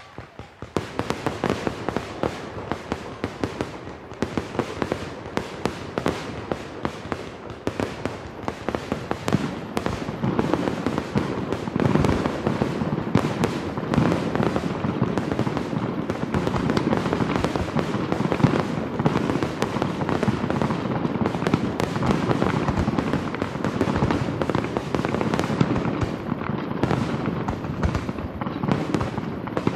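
Fireworks finale: a rapid barrage of bangs and crackles that starts about half a second in, grows denser and louder over the first ten seconds or so, then runs on as an almost unbroken rattle of explosions.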